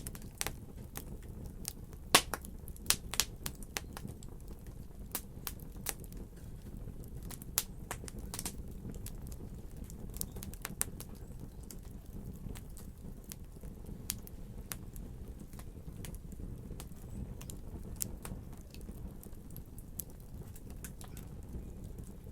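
Wood fire crackling: irregular sharp pops and snaps, a few louder cracks in the first half, over a steady low rumble of the flames.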